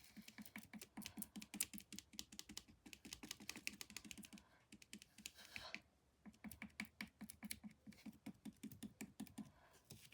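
A paintbrush dabbing and slapping paint onto a canvas in quick repeated taps, several a second, to blend the colours. The taps break off briefly about halfway, then resume.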